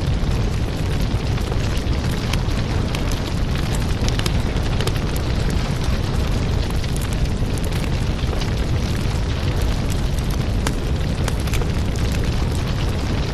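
Firewood burning in a steady, low rumble, with frequent sharp crackles and pops of the burning wood scattered throughout.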